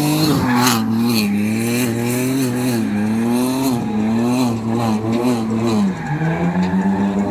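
Drift car engine held at high revs, its pitch wavering up and down as the car slides, over tyre skid noise on the wet track; near the end the revs drop to a lower steady pitch.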